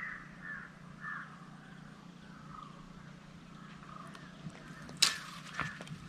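A bird calling repeatedly in short calls that grow fainter, and a sharp click about five seconds in.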